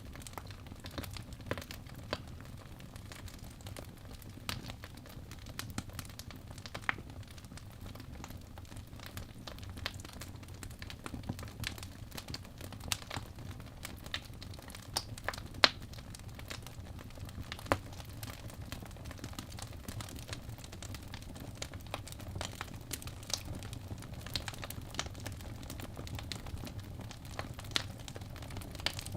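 Wood fire with logs burning in a fireplace: a steady low rumble with irregular sharp crackles and pops, a few louder pops in the middle.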